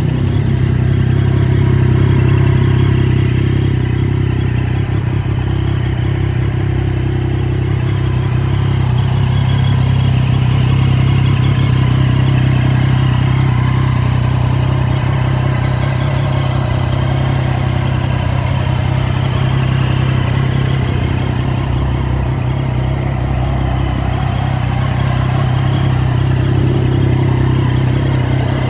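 Triumph Daytona 675 R's three-cylinder engine idling steadily.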